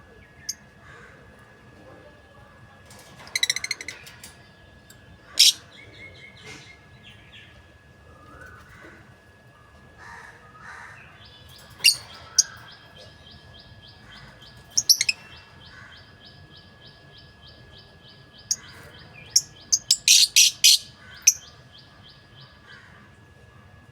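Lovebirds giving loud, sharp, high chirps in scattered single calls, with a quick run of chirps near the end. A softer, fast, even ticking runs beneath them from about halfway.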